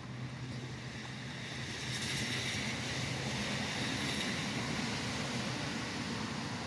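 Steady rain beside a highway, over a low traffic rumble. A vehicle's tyres hiss past on the wet road, swelling about two seconds in and easing off near the end.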